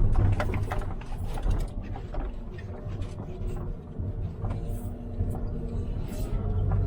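Volvo L90H wheel loader's diesel engine running with a steady low rumble, with scattered clanks and rattles of its bucket handling demolition debris, busiest in the first couple of seconds.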